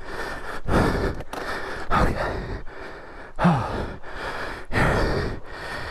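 A person breathing hard in a run of heavy, gasping breaths and sighs, with a short voiced groan about three and a half seconds in.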